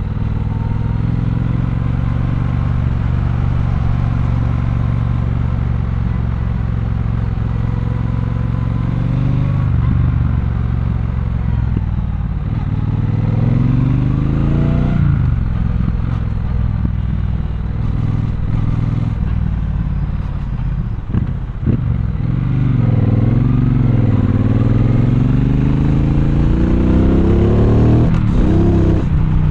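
Triumph Bonneville Bobber's 1200 cc parallel-twin engine under way, heard from the rider's position. It runs steadily at first, then revs rise and fall repeatedly through the middle, dip briefly and climb again near the end as the bike accelerates.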